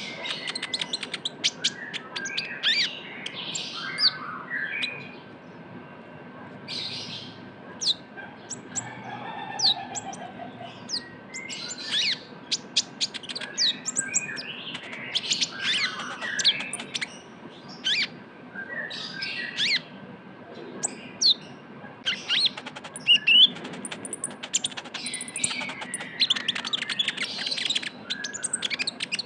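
Sunbird of the kind Indonesian keepers call konin or kolibri ninja, singing vigorously: rapid high twittering and fast, dry trills in repeated bursts with short gaps between them.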